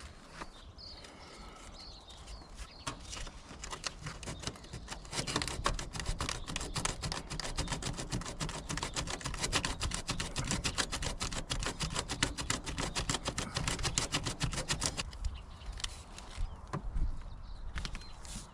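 Aerosol spray-paint can being shaken, its mixing ball rattling in a fast, steady run of clicks for about ten seconds before it stops.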